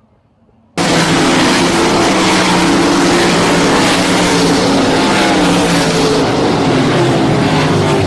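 Sprint car engines running loudly on track, a dense steady engine noise that cuts in abruptly about a second in after a quieter moment.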